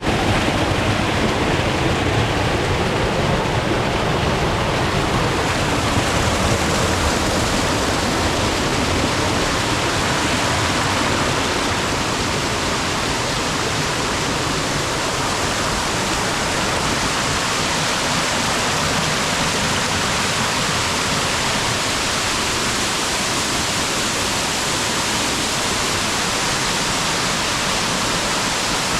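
Steady rushing water, an even unbroken noise with no distinct splashes or tones.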